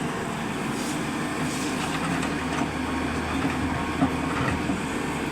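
Truck engine running steadily, with small rattles and a single sharp knock about four seconds in.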